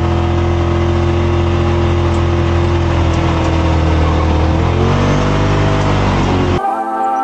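Off-road vehicle engine running at a steady pitch, then revving up with a rising pitch about five seconds in. It cuts off abruptly into music just before the end.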